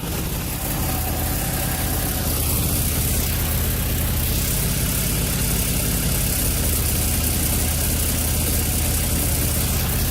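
Nissan 350Z's VQ35DE V6 idling steadily, heard close to the exhaust, with a bad exhaust leak at a loose test pipe joint ahead of the O2 sensor. The owner blames the leak for a lean mixture and a random cylinder-one misfire.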